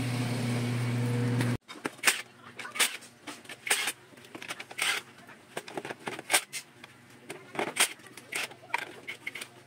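Ford Lynx engine running steadily; the engine misfires and smokes, and the mechanic judges it due for a top overhaul. The engine sound cuts off abruptly about a second and a half in, and scattered sharp metallic clicks and clinks follow.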